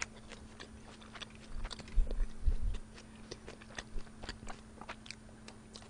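Close-miked chewing of smoked pork belly: many small wet mouth clicks and smacks, with a few low thumps about two seconds in. A steady low hum lies under it.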